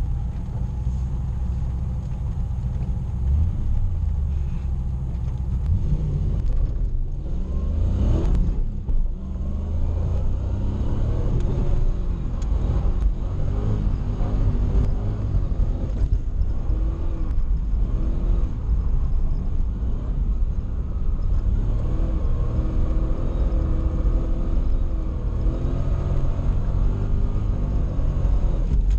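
Toyota 1UZ V8 in a swapped Nissan 240SX, heard from inside the cabin. It runs at low revs, revs up sharply about eight seconds in, then keeps running with revs rising and falling as the car is driven on the wet track.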